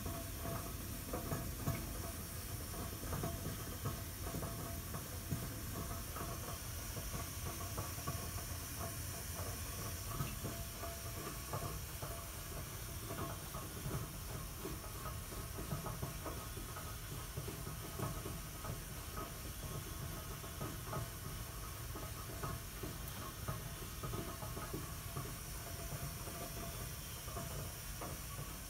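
Hot-water boiler making a steady hissing noise with a low rumble and irregular small crackles and ticks. This is the odd noise that started after its expansion tank and pressure reducing valve were replaced.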